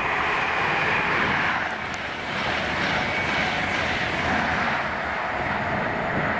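A diesel train passing close by: a loud, steady rumble of engines and wheels on the track, easing slightly about two seconds in.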